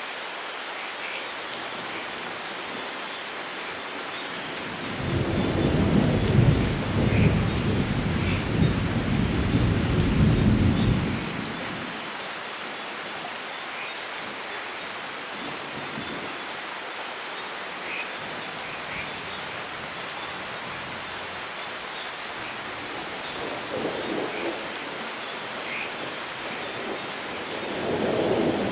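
Steady rain falling, with a long, loud roll of thunder from about five to eleven seconds in and fainter rumbles of thunder near the end.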